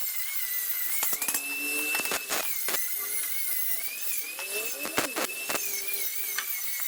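A small high-speed rotary power tool whining steadily, its pitch wavering and stepping up a little, with a few sharp clicks as it touches the metal.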